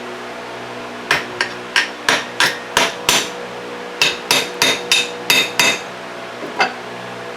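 Hammer tapping the plate on an Ingersoll Rand SS4 air compressor pump to break it loose from the gasket. There are two runs of sharp taps at about three a second, the second run ringing more, then one last tap near the end.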